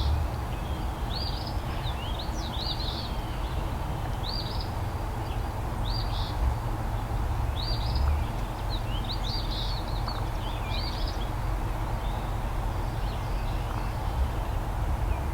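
A songbird calling in short, high chirps, one every second or so for about ten seconds, over a steady low rumble.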